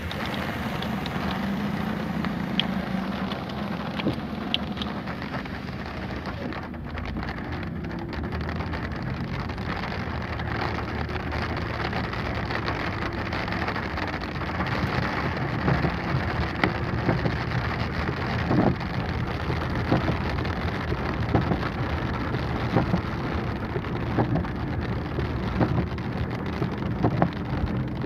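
Heavy rain drumming on a car's roof and windshield, heard from inside the cabin: a steady patter with many sharp drop hits, which come more often in the second half. A low rumble from the moving car runs underneath.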